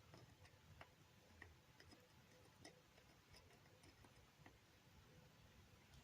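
Near silence with faint, short clicks at irregular intervals of about half a second to a second.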